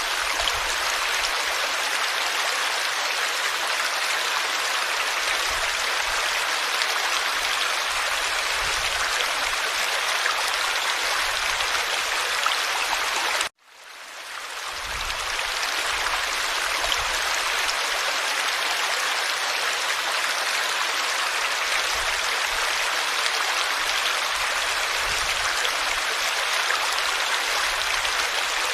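Forest stream flowing over stones, a steady rushing babble. About halfway through the sound cuts out abruptly and fades back in.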